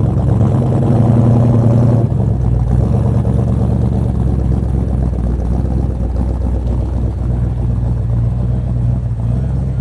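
A classic car's engine idling steadily with a low, even note, a little louder for about the first two seconds before settling.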